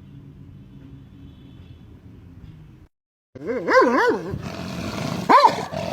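Low steady hum, cut off about three seconds in, then an animal's loud howling calls whose pitch wavers rapidly up and down, several in a row.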